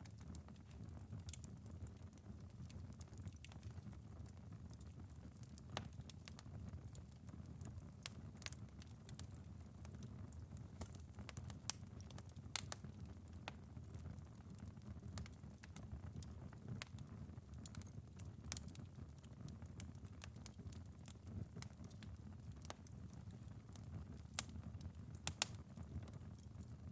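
Wood fire crackling, with irregular sharp pops over a steady low rumble, a couple of them louder about 12 and 25 seconds in. Light rain patters on a window underneath.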